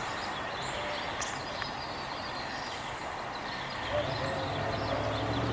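Steady outdoor background noise with a few faint high chirps. A low engine rumble comes in about four seconds in and grows louder toward the end.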